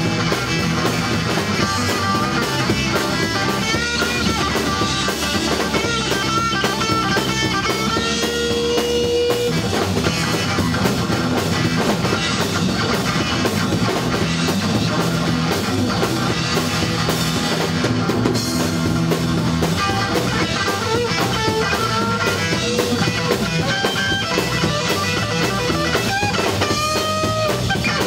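A rock band playing: distorted electric guitars with a lead guitar bending sustained notes over bass and a drum kit, steady and loud throughout.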